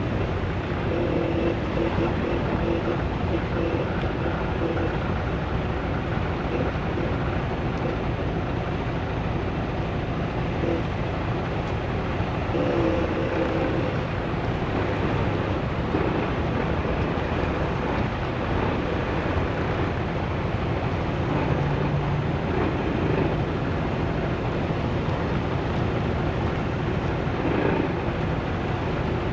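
Semi-truck pulling a loaded trailer down the road: steady engine and road rumble with no breaks.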